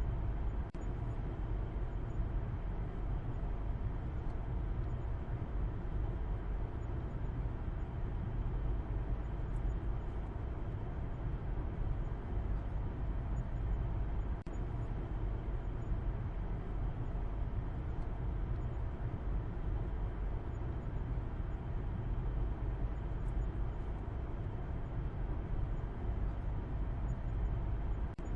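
Steady low rumble of a car driving, with engine and road noise running evenly and no change in pace.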